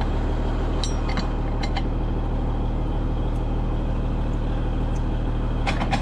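Case 2670 tractor's diesel engine running with a steady low drone while pulling a disc chisel. A few light clinks and rattles sound about a second in and again near the end.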